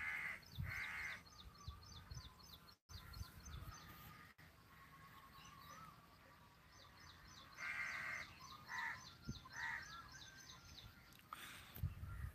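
Birds calling in the open: a fast, high, repeated chirping runs through most of it, broken by a few short harsh calls near the start and again about eight to ten seconds in.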